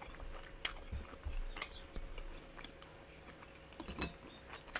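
Close-up chewing of a soft dumpling, mouth sounds with a few sharp clicks scattered through.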